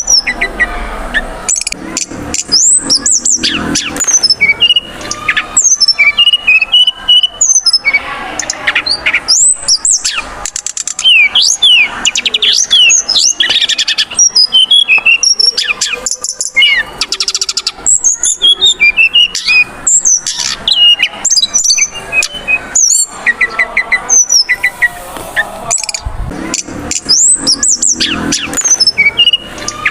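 Brown-chested jungle flycatcher song: near-continuous runs of clear rising and falling whistles and quick trills, broken by short pauses. This is a lure recording of the song, played to provoke other males of the species.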